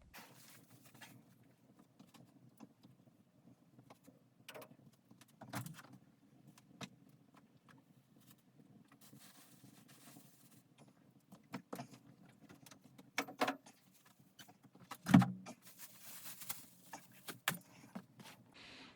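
Scattered clicks, knocks and clinks over a faint low steady noise, with the loudest knock about fifteen seconds in.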